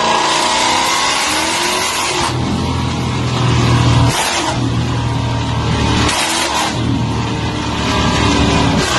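Car engine with a loud exhaust revved hard three times, each rev held for a second or two with short dips between.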